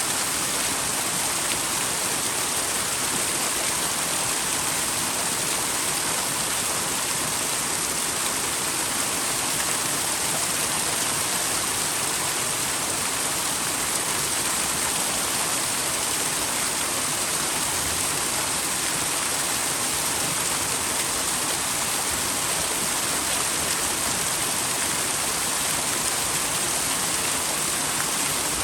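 Small twin waterfall splashing into a mountain stream in a steady, unbroken rush of falling water.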